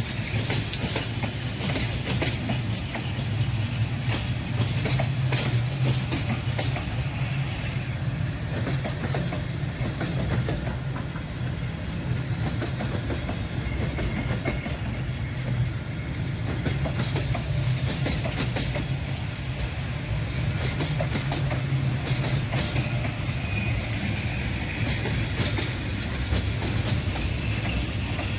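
Train hauled by a D19E diesel-electric locomotive running by, with a steady low rumble and wheels clicking over the rail joints throughout.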